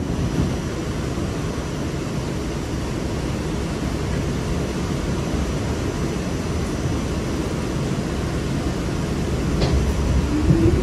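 Steady rumble and hiss heard inside a Staten Island Railway train car as it starts pulling slowly out of a station. Near the end the running noise grows louder and a short rising motor whine comes in as the train picks up speed.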